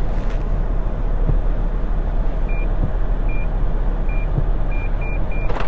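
A car's reverse parking sensor beeping, the beeps coming closer together near the end as the car nears the obstacle behind it and can go no further, over a steady hiss of cabin noise.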